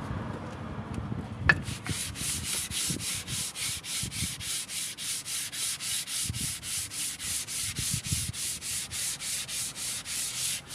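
Abrasive sanding of an engine block's deck surface: steady, even back-and-forth scraping strokes, about four a second. A sharp click comes about a second and a half in, just before the strokes begin.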